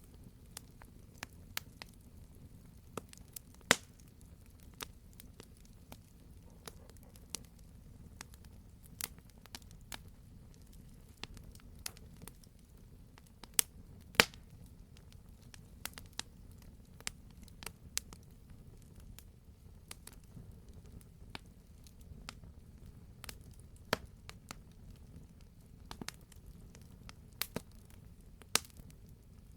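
Wood fire crackling in a fireplace: irregular sharp pops and snaps over a steady low rumble, with the loudest pops about four seconds in and near the middle.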